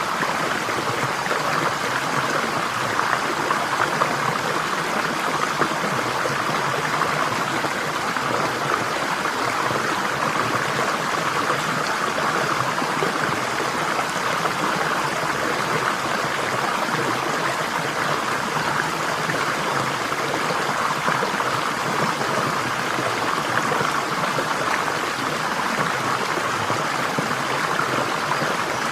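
Steady rush of flowing water, as of a stream, continuous and even without breaks.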